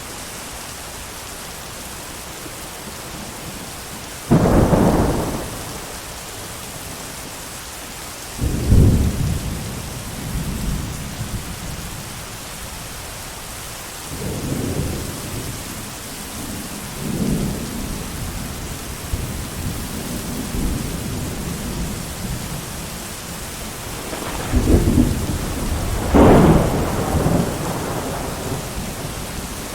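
Thunderstorm: steady heavy rain hissing, with thunder breaking in several times. There is a sudden loud clap about four seconds in, another a few seconds later, low rolling rumbles through the middle, and two more loud claps near the end.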